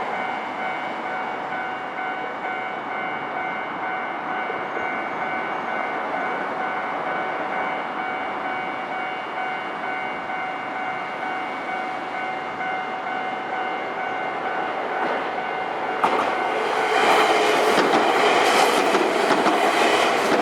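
Level crossing alarm ringing steadily on a repeating electronic tone. About sixteen seconds in, a Nankai electric train reaches the crossing and passes loudly, its wheels clattering over the rail joints.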